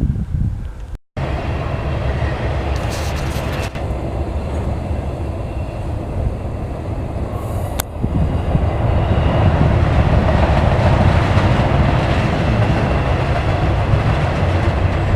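Train passing on nearby railroad tracks: a steady low rumble and rolling noise that grows louder about halfway through.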